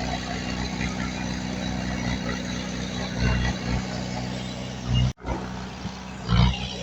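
Diesel engine of heavy earthmoving machinery running steadily, with a brief drop-out about five seconds in and a louder surge near the end.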